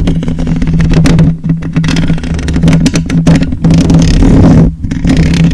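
Loud, steady low buzz close to the microphone, with rough crackling scratching over it; it drops out briefly near the end.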